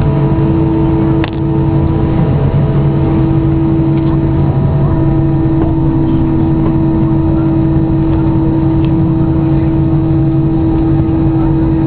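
Airbus A320 cabin noise: the jet engines and air systems give a steady, loud hum made of several constant tones over a rushing background, with a brief click about a second in.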